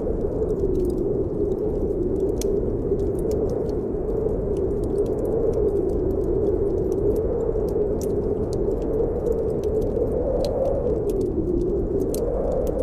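Snowstorm wind blowing with a low, steady howl that swells and eases every few seconds, over a fireplace wood fire crackling with scattered small pops.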